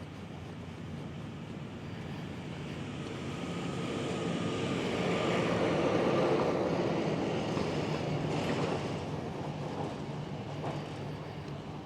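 A vehicle passing by: a steady hum that grows louder to a peak about six seconds in, then fades away.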